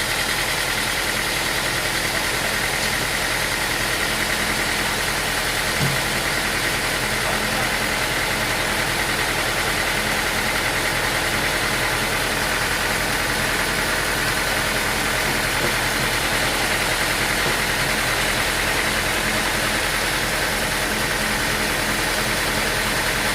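Sawmill machinery running steadily: a continuous engine drone with a steady high hum that does not change, and a single soft knock about six seconds in.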